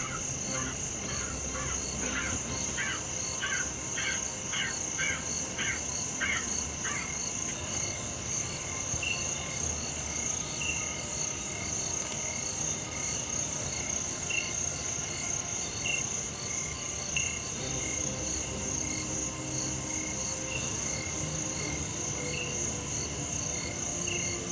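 Night-time forest insects, crickets among them, chirring steadily at a high pitch. For the first seven seconds an unseen animal gives a run of short repeated calls, about two a second, and after that only scattered single short notes sound over the insects.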